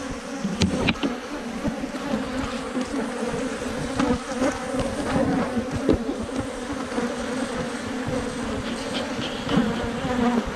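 Many Africanized honey bees buzzing in a dense, steady drone, with a few sharp clicks about a second in.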